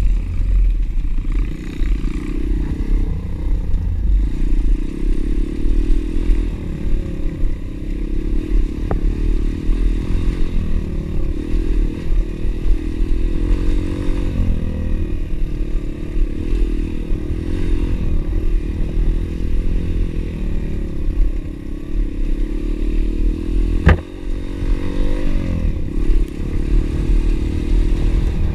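Pit bike engine running while riding, its pitch wavering up and down with the throttle, with clattering from the bike over rough ground. A sharp knock about 24 seconds in, followed by a quick rev.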